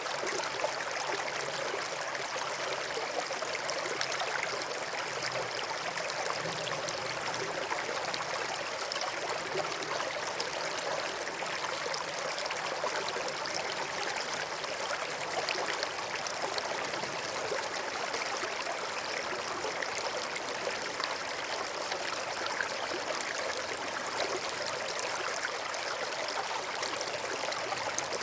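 A small stream of running water, flowing and trickling in a steady, even rush.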